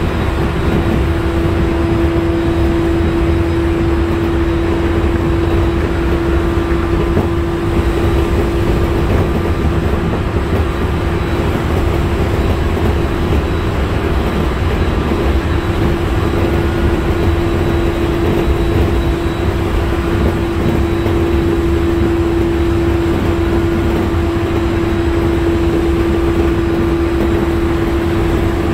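Inside a JR 701 series electric train running at a steady speed. Its MT65 traction motors hold one even whine over the low rumble of the wheels on the rails.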